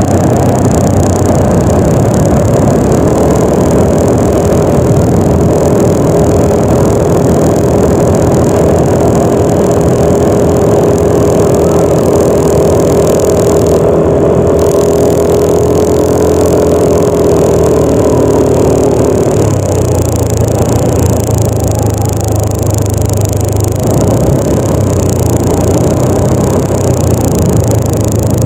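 Yamaha NMAX 155 scooter's single-cylinder engine running under way, a loud steady drone on an unpaved track. A held tone in the drone drops away and the low note changes about two-thirds through, as the speed changes.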